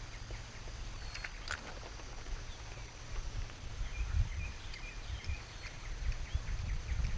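Wind rumbling on the microphone outdoors on open water, with two faint clicks about a second in and faint short high chirps through the second half.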